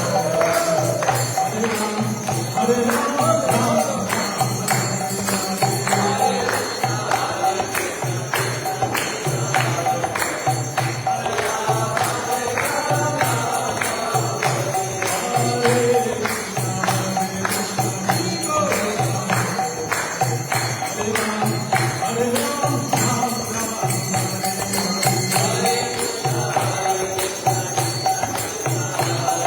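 Kirtan: voices singing a chanted mantra to a steady beat of jingling metal percussion and a drum.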